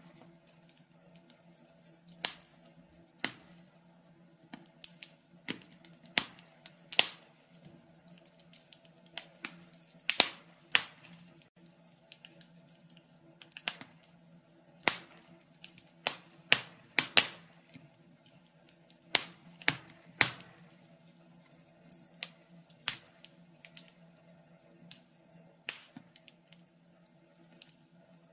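Burning logs in a fireplace crackling, with irregular sharp pops and snaps, a few of them louder, over a faint steady low hum.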